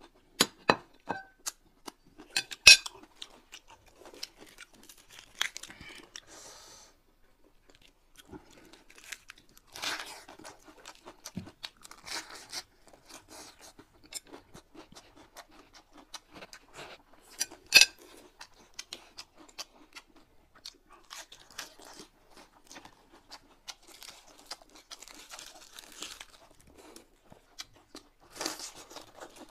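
Close-up mouth sounds of people crunching and chewing raw vegetables, with irregular crunches and a few sharp, louder snaps as pieces are bitten through.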